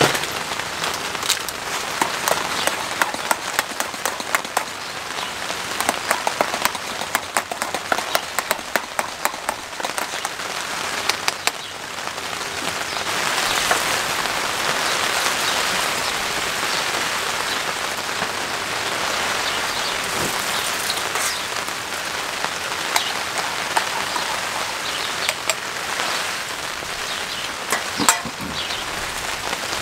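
Rain on a tarp overhead. For the first half, heavy drops tap sharply and irregularly. About halfway through, a steadier, heavier rush of rain takes over, with a few more drops tapping near the end.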